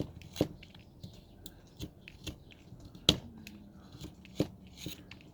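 Carving knife slicing into wood: a series of short, sharp cutting snaps as chips are taken off, the loudest a little after three seconds in.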